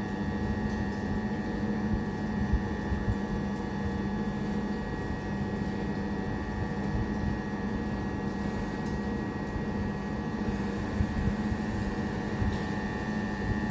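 Steady electrical hum and whine of a stationary Class 377 Electrostar electric multiple unit standing at the platform, its pitch holding level throughout, over a low rumble.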